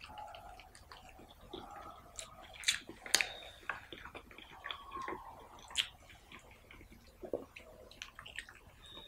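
Close-miked mouth sounds of eating mutton curry and rice: chewing with irregular wet smacks and sharp clicks, the loudest about three seconds in.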